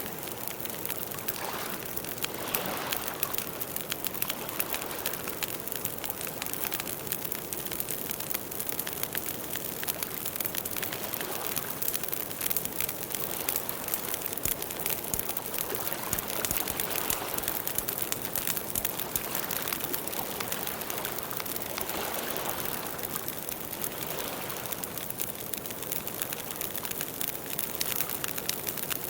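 Campfire burning steadily, a dense run of small sharp crackles and pops over a soft hiss that swells gently now and then.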